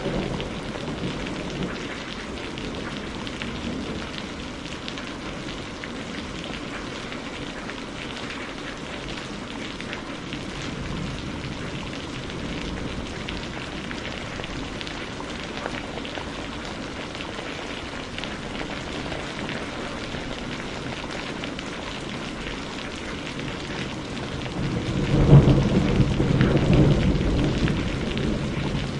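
Steady rain falling, with a roll of thunder about 25 seconds in that rumbles low and fades over a few seconds.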